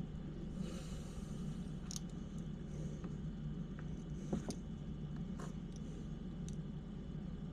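A few faint clicks and light scrapes of small hard parts as an RC crawler's transmission is worked into a tight-fitting skid, over a steady low hum.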